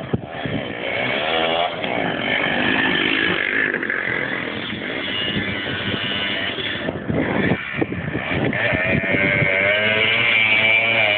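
Motocross motorcycle engines running hard with a buzzing tone. The pitch rises as the throttle opens about a second in and again near the end.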